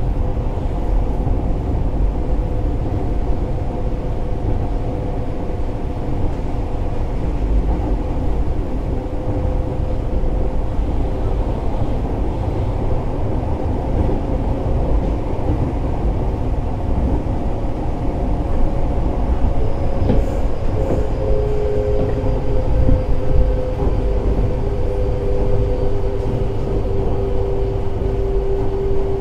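Fukuoka City Subway 1000N series electric train running along the line, a steady rumble of wheels on rail with a continuous motor whine of several steady tones. A faint high whine joins about two-thirds of the way in.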